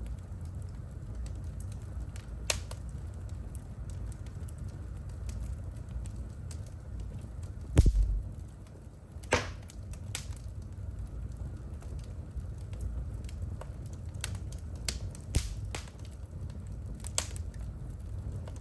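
Wood fire burning in a home fireplace: a low steady rumble of the flames with scattered sharp crackles and pops, the loudest pop a little before halfway.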